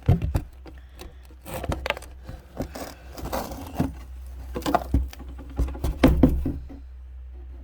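Handling noise: a run of knocks, clicks and scraping rustles that stops about seven seconds in, leaving a faint low hum.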